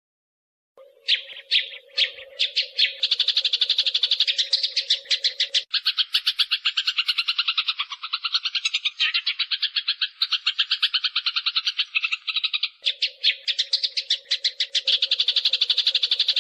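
Eurasian tree sparrows (burung gereja) chattering in fighting calls: a few separate sharp chirps about a second in, quickly running into a dense, rapid chatter of many chirps a second.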